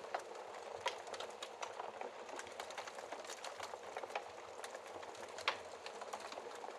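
Wood fire crackling: a soft steady hiss with irregular small pops and snaps, two of them louder, about a second in and again near the end.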